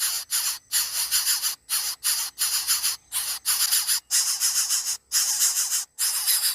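Dense high-pitched chorus of insects, cicadas or crickets, with steady shrill tones. It is broken by brief drops to near silence every half-second to a second.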